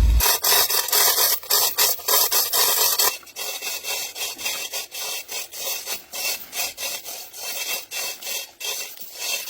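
Quick, repeated rasping strokes of something scraping a hard surface, like filing or scrubbing, louder for the first three seconds and then quieter.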